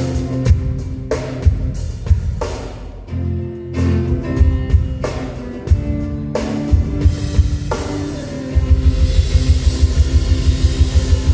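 Live band music with no vocals: drum-kit hits and cymbal crashes over sustained guitar and bass chords. About three-quarters of the way through, a fast, steady kick-drum beat starts.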